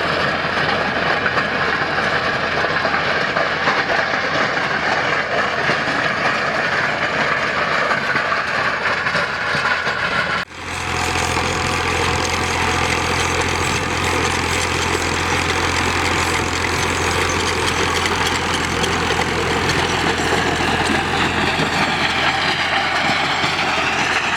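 Al Ghazi tractor's diesel engine running steadily while working a rotavator, with the churning noise of the machinery. The sound breaks off for an instant about ten seconds in and resumes with a deeper hum.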